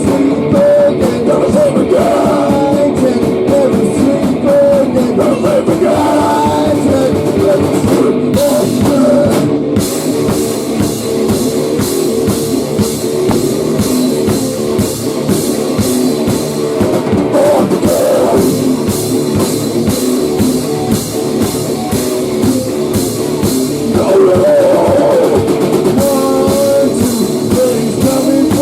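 Grunge/hardcore rock band playing a song: a drum kit with steady cymbal hits under guitar, with singing in places.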